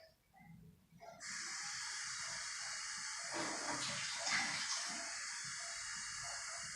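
Water running steadily from a tap, starting about a second in, as something is washed under it.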